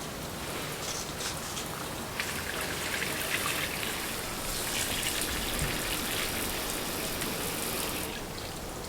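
Rain pattering in many fine drops; a denser spell sets in about two seconds in and drops away abruptly shortly before the end.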